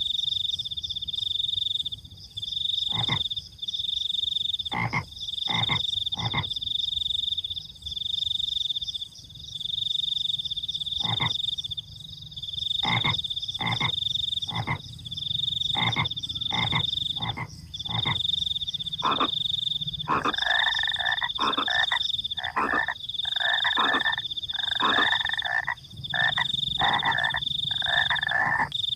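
Night chorus of frogs croaking in short, sharp calls, thickening about twenty seconds in into a dense run of quick repeated calls. Under them a cricket trills steadily at a high pitch in pulses of about a second.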